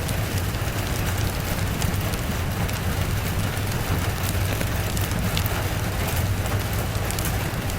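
Steady rain with a fireplace crackling, scattered sharp pops over an even hiss, and a steady low rumble underneath.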